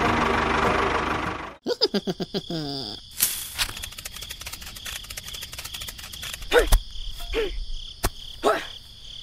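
A loud steady running sound, probably the mini tractor's small motor, stops abruptly about a second and a half in. Then crickets chirr steadily, broken by a few short falling calls and clicks.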